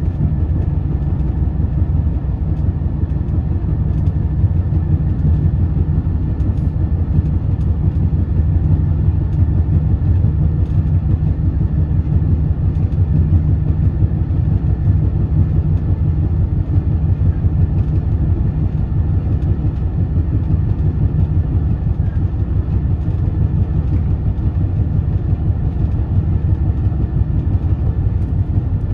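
Overnight sleeper train running along the track: a steady low rumble.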